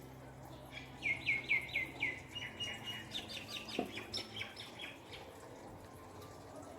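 A bird singing: a quick run of about five falling chirps, then a looser string of thinner chirps that fades out after a few seconds, with a single soft knock in the middle.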